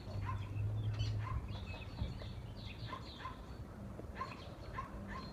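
Small wild birds chirping, many short high chirps scattered throughout, over a low steady hum.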